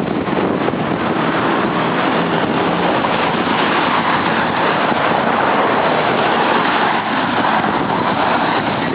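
Steady loud rushing noise of wind buffeting the camera microphone mixed with road traffic, swelling slightly in the middle.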